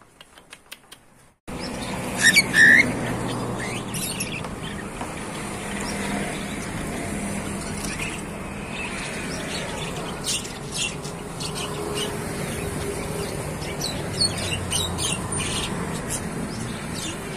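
Caged birds calling: a few loud squawks about two seconds in, then scattered short high chirps over a steady background hiss.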